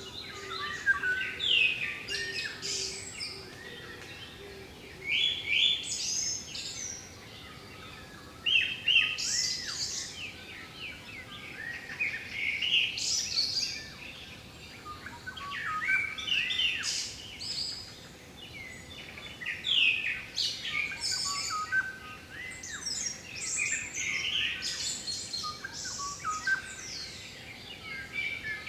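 Wild songbirds singing and calling: short, bright, chirping phrases from several birds overlapping, a new burst every few seconds.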